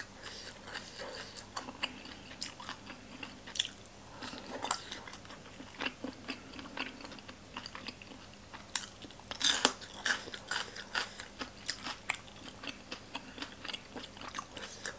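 Close-miked chewing and biting: wet mouth clicks and crisp crunches of boiled pork offal, raw green vegetables and green papaya salad. A louder burst of crunching comes about nine seconds in, just after a raw green vegetable goes into the mouth.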